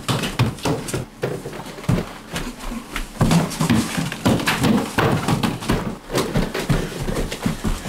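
Footsteps of people running up a staircase: many quick, uneven knocks, several a second.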